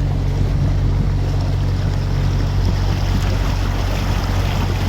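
Canal tour boat's motor running with a steady low drone, under a hiss of wind and water.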